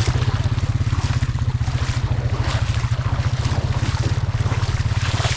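Vehicle engine running at a steady speed, a low rumble with a fast, even pulse.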